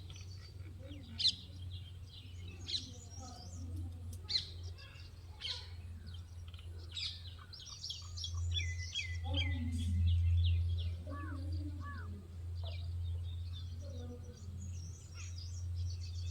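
Several birds chirping and calling, with short chirps and trills overlapping throughout, over a steady low hum.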